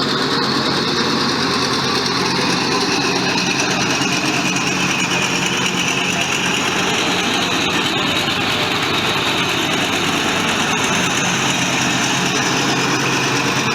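John Deere L110 ride-on mower's engine running steadily with an even hum; the freshly rebuilt mower runs well.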